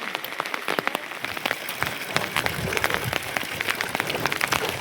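Rain falling, with a dense, irregular patter of drops striking a surface.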